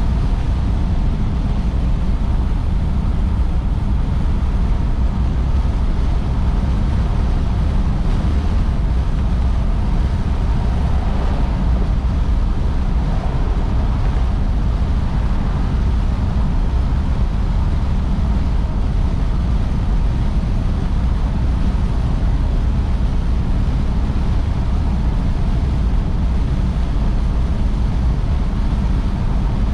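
1953 Oldsmobile Super 88 cruising at a steady speed: a constant low rumble of engine and road noise that does not rise or fall.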